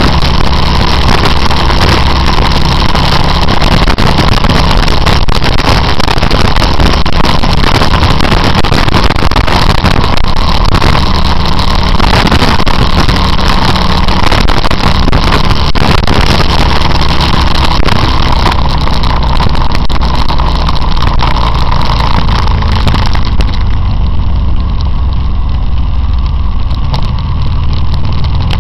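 Motorcycle running on the road, loud and steady with a lot of hiss over the engine. About 23 seconds in the hiss dies down and the sound becomes quieter and lower.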